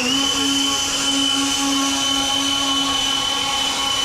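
A small motor running at a constant speed, giving a steady high whine over a lower hum, its pitch unchanging throughout.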